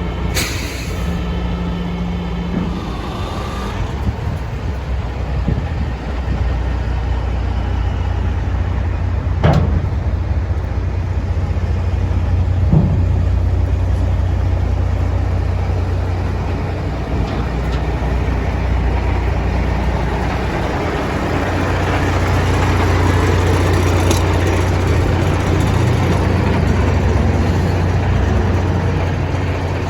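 Caterpillar C15 diesel engine of a Kenworth T800W dump truck idling with a steady low drone. A single sharp click comes about nine and a half seconds in.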